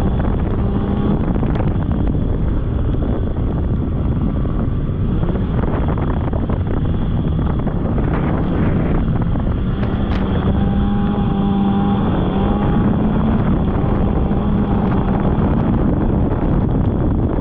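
Polaris snowmobile engine running steadily under way, with wind rushing over the microphone. The engine note rises slightly a bit past the middle.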